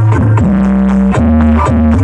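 Loud electronic dance music played through the Harmonis Audio sound system's twelve subwoofers during a sound check. It has a heavy, steady bass and held synth notes that change pitch about every half second.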